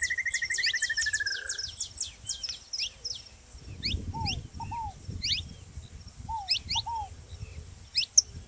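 Saffron finches calling with rapid high falling chips and a buzzy trill that slides down and ends in the first couple of seconds, while a ground dove gives short low coos, often in pairs, through the rest. A low rumble comes in about four seconds in.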